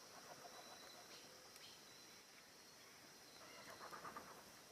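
Near silence: faint forest ambience with a steady high insect hum, and a few soft bird calls about three and a half to four seconds in.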